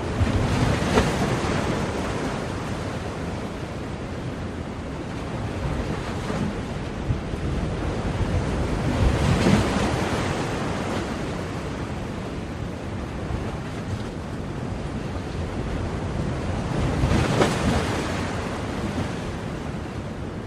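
Ocean surf: a steady wash of waves with three waves breaking, about eight seconds apart.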